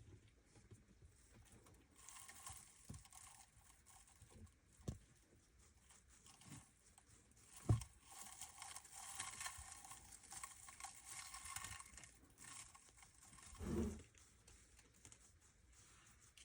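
Winter white dwarf hamster nibbling popcorn: a soft, crackly crunching and crinkling that runs for several seconds, broken by a few light knocks, the sharpest just before the middle and a duller thump near the end.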